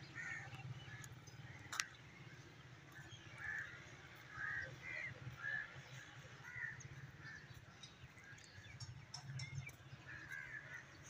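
Faint outdoor ambience: short bird calls scattered throughout, a few in quick succession, over a low steady rumble.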